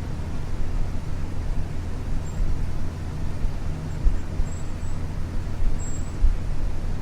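Isuzu U-LV224N bus's 6QB2 diesel engine running steadily under way, heard inside the passenger cabin as a low engine drone with road noise.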